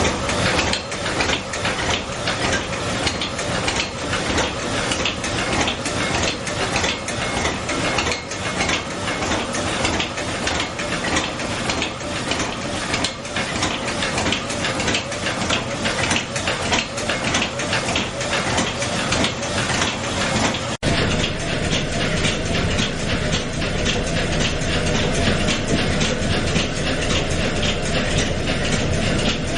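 Steam puffer's steam engine running, with a rapid, steady mechanical clatter of its moving parts. About two-thirds of the way through it cuts abruptly to a steadier sound with a deeper hum and less clatter.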